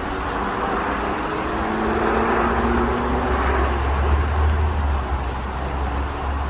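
Road traffic: a vehicle passes, its tyre and engine noise swelling about two to four seconds in, with an engine note that falls in pitch as it goes by, over a low rumble.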